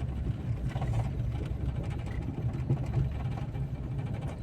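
Car engine and road noise heard inside the cabin, a steady low rumble.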